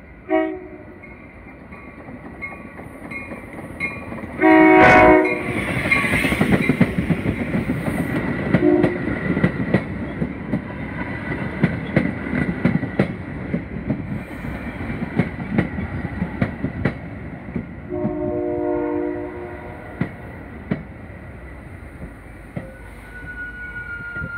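Metra commuter train pulling into a station. Its horn sounds several blasts, the longest and loudest about four and a half seconds in and another near the end. Between and after the blasts the bilevel cars roll past, rumbling, with the wheels clicking over rail joints as they slow, and there is a brief thin squeal of the brakes just before the end.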